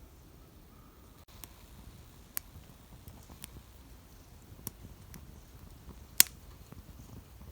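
A few irregular sharp clicks and snaps over a low background rumble, the loudest about six seconds in.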